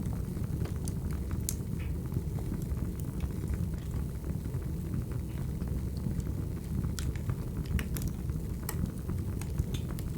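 Wood fire burning: a steady low rumble of flames with scattered sharp crackles and pops, several of them close together around seven to nine seconds in.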